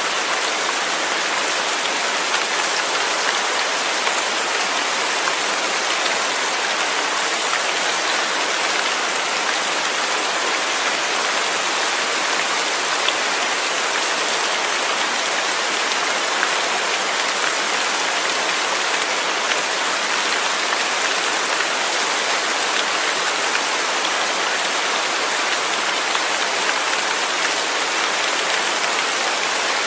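Steady rain falling, an even hiss of many drops with a few sharper drop ticks.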